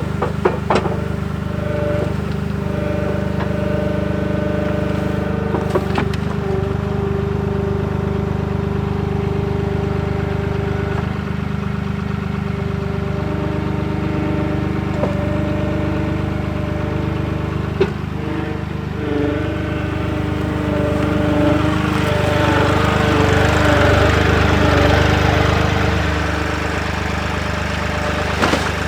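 Avant 755i compact loader's diesel engine running steadily, with a whine that shifts in pitch as it works. There are a few sharp knocks, and the engine grows louder and rougher for several seconds about twenty seconds in.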